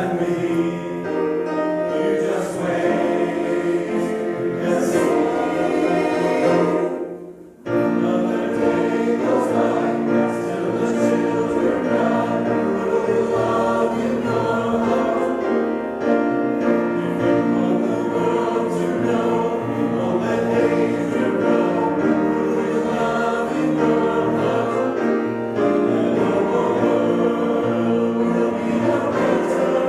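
Choir singing in parts, with a short break between phrases about seven seconds in.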